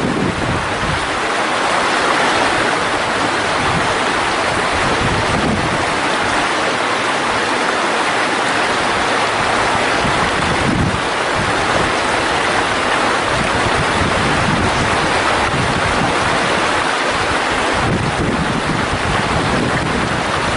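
Mountain valley stream flowing with a steady rush of water. Low wind rumble on the microphone comes and goes, near the start, midway and near the end.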